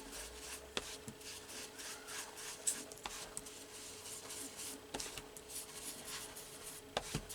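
Ink being rubbed along the edges of a paper cutout with an inking tool: a run of short, faint scratchy strokes on paper, with a few light taps.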